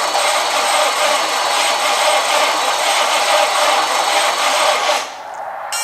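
Starter cranking the 1971 Chevelle's big-block V8, which turns over without firing, for about five seconds before it stops. The no-start points to a spark or ignition-timing problem.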